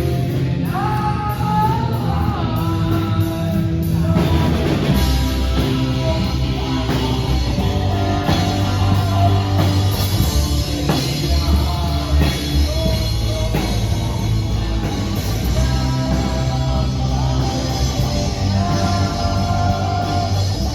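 Rock band playing a song: singing over guitar and a drum kit, loud and continuous.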